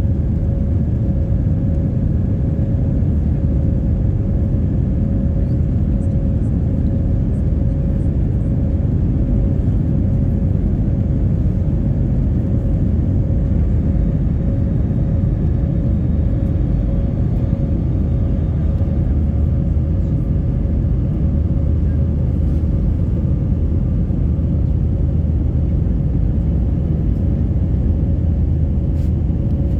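Steady low rumble of an Airbus A320's jet engines on departure, unchanging in level, with one faint constant hum above it.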